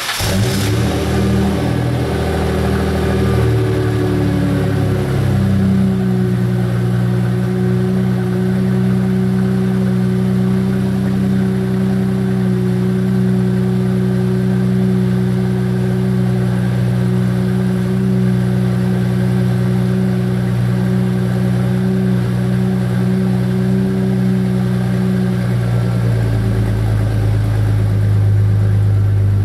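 2001 Ford Mustang 3.8-litre V6 through a custom H-pipe and two Flowmaster 10 Series mufflers, idling fast just after a cold start. The note wavers for the first few seconds, then holds steady, and drops lower about three seconds before the end as the idle comes down.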